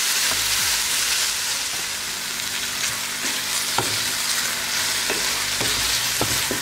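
Bacon, onion and sliced mushrooms sizzling in a stainless steel frying pan as they are stirred with a wooden spoon, with a few scattered knocks of the spoon against the pan.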